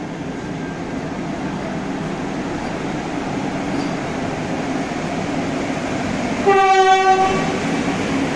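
Vande Bharat Express electric trainset rolling slowly along the platform with a steady rumble that grows slightly louder, and a single short train horn blast of under a second near the end.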